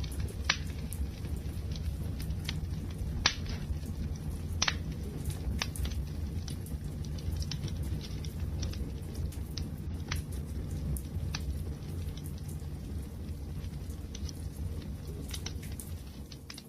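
Wood fire crackling: a steady low rumble of burning with scattered sharp pops and snaps, a few of them louder than the rest.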